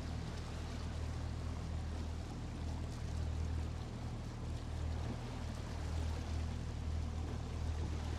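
A boat motor running steadily under way, a low, even drone with water and wind noise over it.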